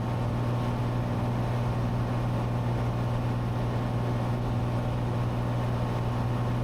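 Cessna 182T's six-cylinder Lycoming IO-540 engine and propeller droning steadily in cruise flight, heard inside the cabin as a constant low hum with a broad rushing noise over it.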